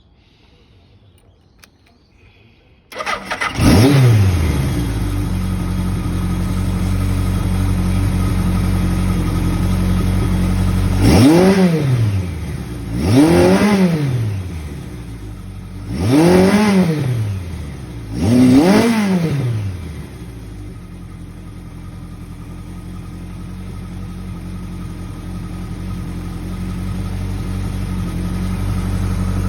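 Kawasaki KZ900's air-cooled inline-four motorcycle engine starting a few seconds in, revving once as it catches, then idling. In the middle it is given four short throttle blips, each rising and falling in pitch, before settling back to a steady idle.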